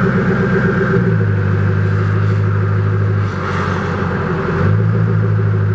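Koenigsegg CCXR Trevita's twin-supercharged V8 running at a steady low idle. The note roughens briefly about three and a half seconds in, then settles again.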